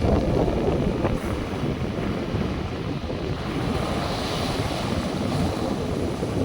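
Wind rumbling on the microphone over a steady wash of sea surf.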